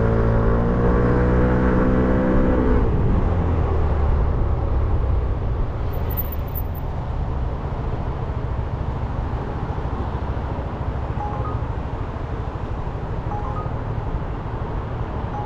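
Motorcycle engine running at steady revs, then dropping in pitch about three seconds in as the throttle is closed and the bike slows, followed by a steady low rumble and hiss of wind and road noise.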